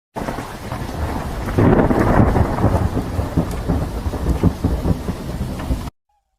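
Thunderstorm sound effect: rain with a low rumble of thunder that swells about a second and a half in, then cuts off abruptly near the end.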